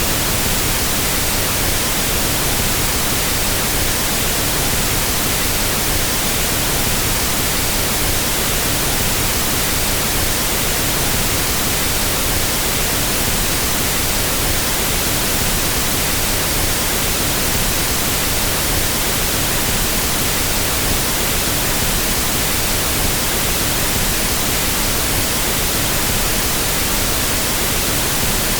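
Pink noise test signal for equalizing audio: a steady, even hiss across the whole frequency range, unchanging in level.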